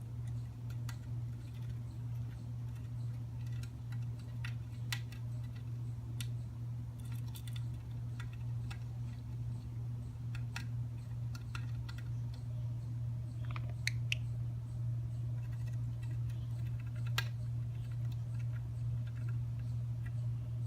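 Budgerigar chewing and splintering a wooden branch with its beak: irregular sharp clicks and small cracks over a steady low hum.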